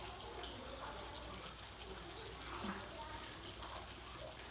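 Steady hissing noise, with faint voices in the background.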